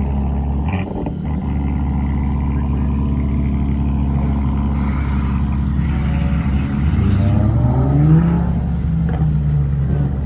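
Car engine running steadily, then revving up about six and a half seconds in, its pitch climbing for about a second and a half before holding at the higher speed.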